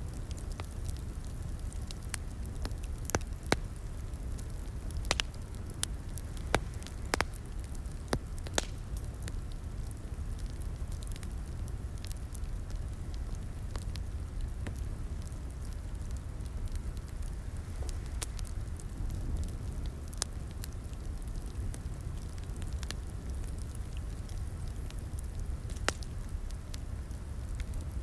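Wood fire crackling in a fireplace: a low steady rumble of the flames with sharp, irregular pops and snaps, the pops thickest in the first third.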